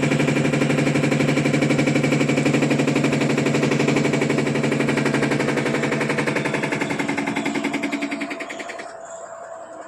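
Panasonic top-load washing machine spinning with a fast, even, rapid-fire rattle over a steady hum, dropping off sharply near the end. The noise is the sign of a loose nut inside, which the repairer suspects and then finds loose.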